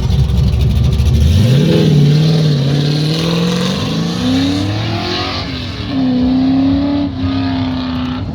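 Race truck engine accelerating hard on an autocross course. The revs climb about a second and a half in, dip briefly, climb again, then hold at a steady pitch through the last few seconds.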